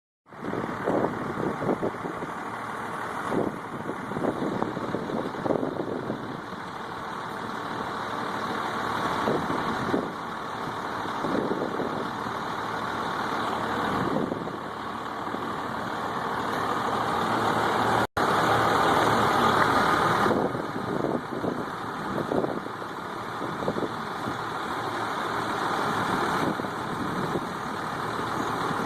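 Elgin street sweeper running, its engine and machinery making a dense steady noise with irregular knocks and rattles. The sound drops out for an instant about two-thirds of the way through, then comes back louder for a couple of seconds.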